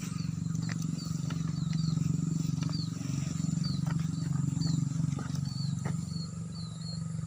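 Chorus of frogs croaking after rain, a dense low drone that pulses steadily throughout. Small high chirps repeat about twice a second above it.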